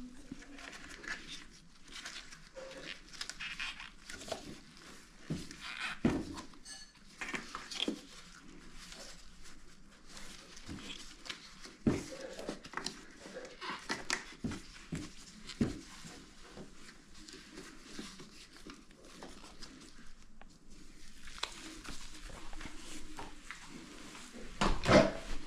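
Irregular handling noise: scattered clicks, light knocks and rustling of hands working with parts, with a louder cluster of knocks near the end.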